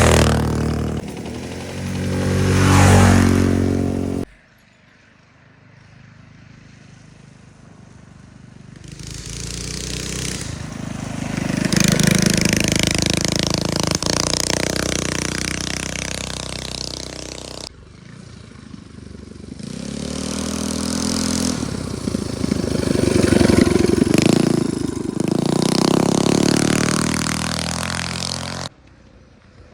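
Small minibike engines running at speed and revving as bikes ride past. The sound swells and fades several times with shifting pitch, and breaks off abruptly between passes.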